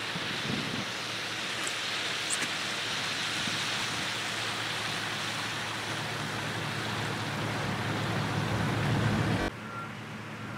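Steady rushing noise of storm rain and floodwater, with a low steady hum underneath; the level drops abruptly near the end.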